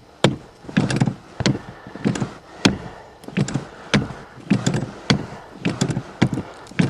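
Accelerator pedal of an old carbureted Chevy being pumped over and over, a wooden-sounding knock just under twice a second, to prime the carburetor before a cold start without a choke.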